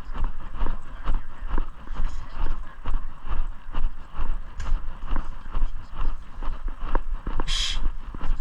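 Footsteps of a person walking at an even pace, about two steps a second, with the thump and rumble of a body-worn microphone jostled at each step. A short, bright rasping burst stands out near the end.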